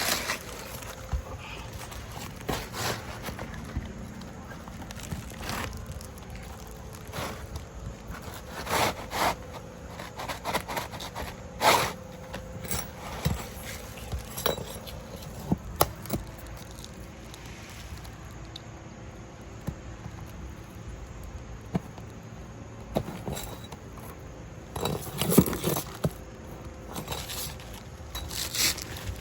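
Irregular scrapes, clicks and knocks of hand tools working on asphalt shingles during a roof repair.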